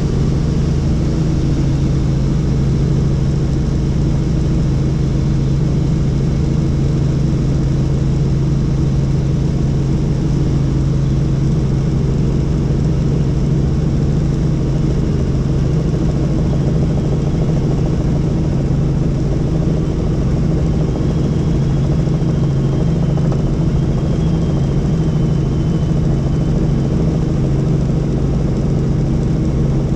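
Helicopter in flight: a steady, loud drone of engine and rotor that stays even throughout, with a faint high whine wavering in pitch about two-thirds of the way through.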